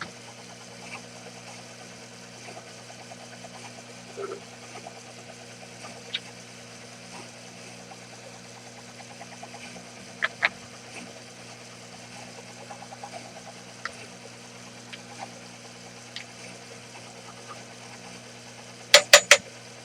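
Sherline mini lathe running with a steady motor hum while turning phosphor bronze, with scattered small ticks. A quick run of three sharp clicks comes near the end.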